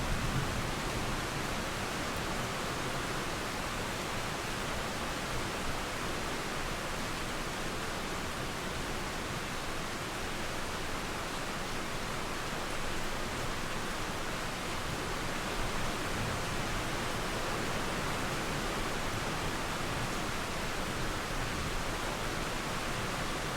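Steady rain falling with a flowing river beneath it, an even hiss that doesn't let up.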